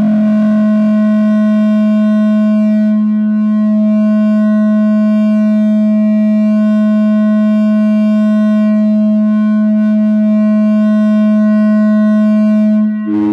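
No-input mixer feedback drone: a two-channel mixer and effect pedal feeding back into themselves hold one loud, steady, unchanging low tone with a stack of overtones above it.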